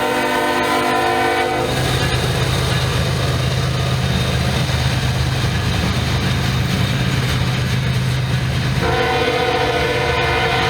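A Norfolk Southern diesel locomotive's air horn sounding a chord, cutting off about a second and a half in to leave the low drone of the locomotive engine and the rumble of the train, then sounding again near the end.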